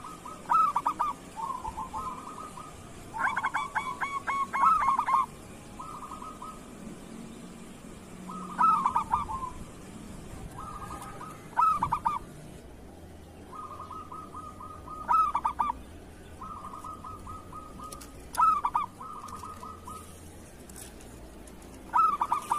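Zebra dove (perkutut) singing its rolling coo song. Short phrases of rapid notes repeat every two to three seconds.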